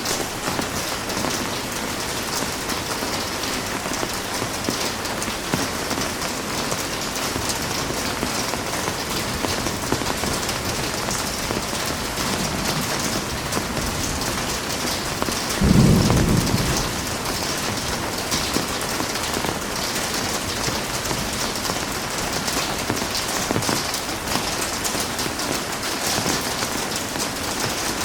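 Heavy rain falling steadily. A little over halfway through, a short low rumble of thunder rises above it for about a second.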